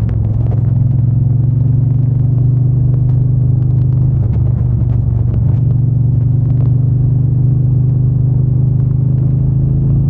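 Triumph Bonneville T120's 1200 cc parallel-twin engine and exhaust running at a steady pace while riding, with a brief break in the engine note about four seconds in.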